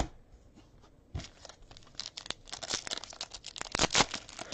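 Foil trading-card pack wrapper being torn open and crinkled in the hands, a dense crackling that starts about two seconds in after a couple of small knocks.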